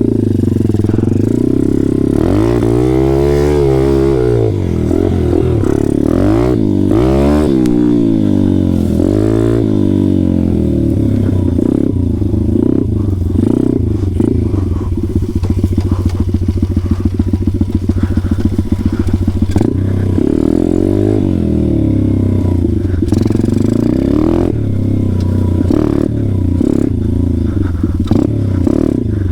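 Pit bike's small single-cylinder engine running under a rider, revving up and dropping back several times as it is ridden in second gear, with rattling from the bike over rough ground.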